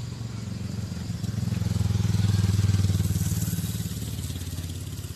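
A motorcycle engine passing by, getting louder to a peak partway through and then fading away.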